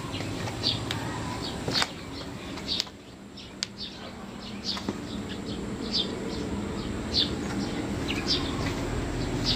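Small birds chirping, short high chirps repeating every second or so, over a steady low hum.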